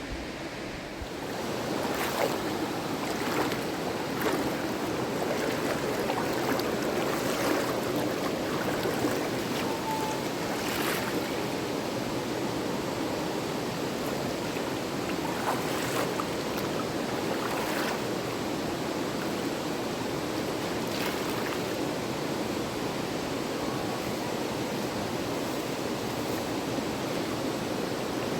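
River water rushing steadily, growing louder about a second and a half in, with a few short sharp sounds over it.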